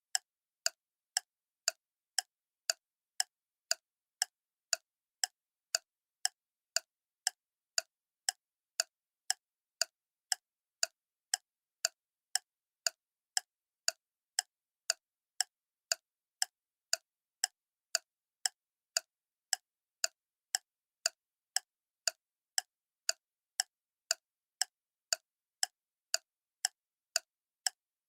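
Clock ticking steadily, about two sharp, even ticks a second with silence between them.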